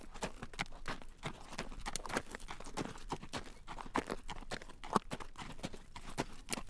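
Carriage horse's hooves clip-clopping at a walk on a road, a steady run of sharp clacks several times a second.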